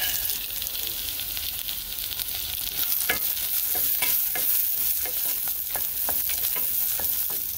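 Peanuts being poured into a pot of onion, garlic and whole spices frying in oil, with a steady sizzle. From about three seconds in, a wooden spoon stirs and knocks against the metal pot roughly twice a second.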